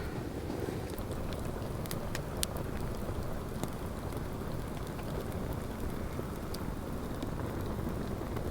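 Swedish torch (rocket log) fire burning, a steady low rush with scattered sharp crackles and pops.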